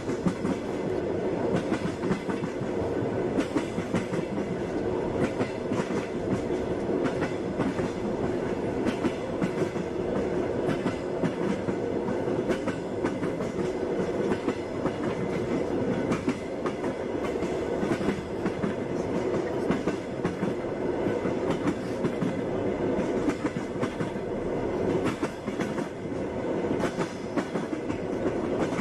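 Passenger train running at speed: a steady rumble with the clickety-clack of the wheels passing over rail joints, the knocks coming at short, uneven intervals.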